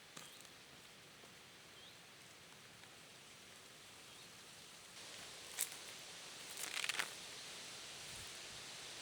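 Quiet outdoor ambience with a faint steady hiss; a little past halfway a sharp snap, then a brief cluster of crackling rustles.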